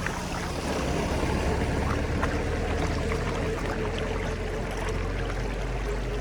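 Floodwater rushing steadily down an unclogged storm drain or culvert, with a low rumble and scattered small splashes.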